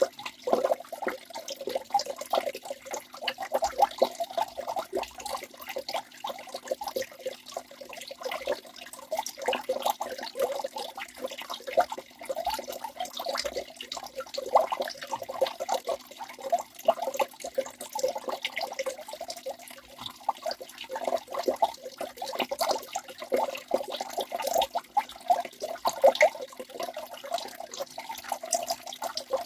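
Waterfall running steadily, a continuous rush of water made of many quick small splashes, with little deep rumble.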